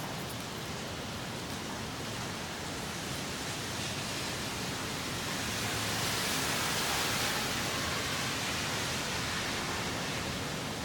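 Typhoon wind and heavy rain: a steady rushing hiss that swells louder around the middle and eases slightly toward the end.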